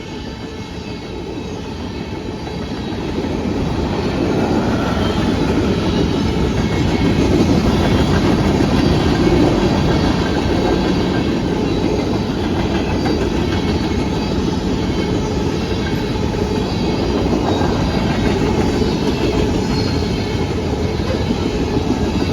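Freight train rolling past, a loud steady rumble of cars on the rails that builds over the first few seconds and then holds.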